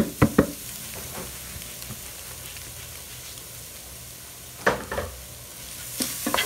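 Shredded chicken sizzling as it fries in butter with onion and garlic, while a metal spoon stirs it and knocks against the metal pot: a cluster of sharp knocks at the start and more about five and six seconds in.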